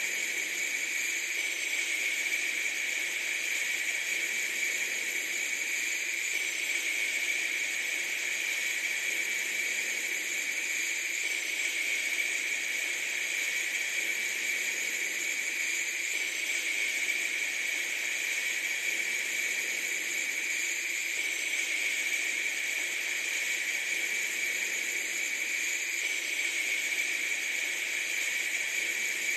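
Steady, unchanging hiss, bright and thin with no low end.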